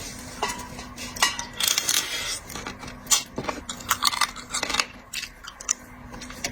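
Eating seafood: scattered sharp clicks and clinks of utensils and shells against dishes, a few short crunching scrapes, and chewing, over a faint steady hum.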